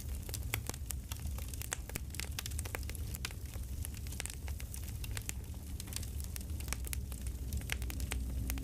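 Campfire crackling: irregular pops and snaps over a steady low rumble.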